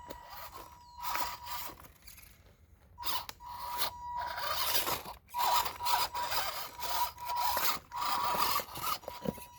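Electric motor and drivetrain of an MN82 RC rock crawler whirring in throttle bursts as it crawls, starting about a second in and running almost without break from three seconds on, over a steady high whine.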